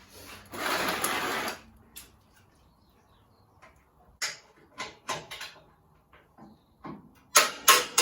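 Hand tools and metal parts being handled: a rushing scrape lasting about a second near the start, then scattered clicks and clanks that grow louder near the end.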